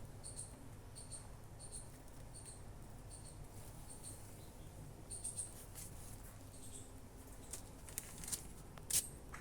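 A small creature's high, thin chirp, repeated about every three-quarters of a second for the first four seconds, then a handful of sharp clicks, the loudest one near the end.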